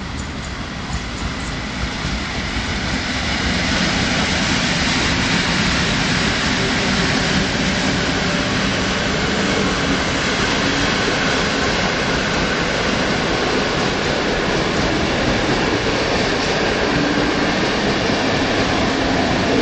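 A passenger train hauled by two coupled EU07 electric locomotives rolling past, the noise of wheels on rail growing louder over the first few seconds and then holding steady as the coaches go by.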